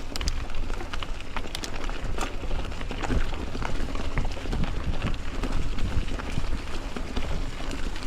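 Bicycle riding over a rough trail: tyre noise with many small clicks and rattles from the bike, over a steady low rumble of wind on the microphone.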